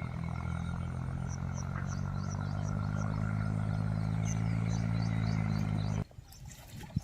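Tractor diesel engine running at a steady speed, cutting off abruptly about six seconds in.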